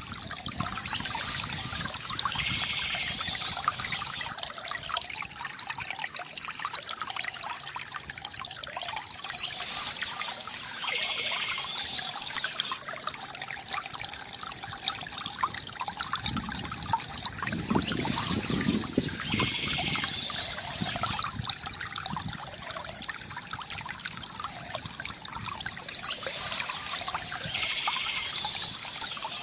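Small stream trickling and babbling steadily over stones, with a brighter splashing passage that comes back about every eight to nine seconds.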